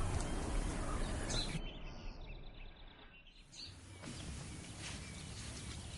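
Outdoor background noise with a few short bird chirps. The sound drops quieter for a second or two around the middle, then returns.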